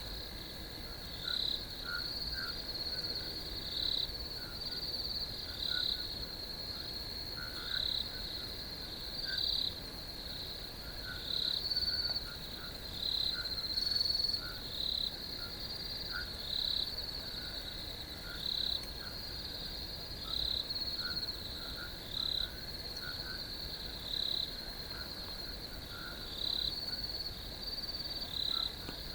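Crickets chirping in a chorus: a steady high-pitched trill with louder chirps breaking through every second or two.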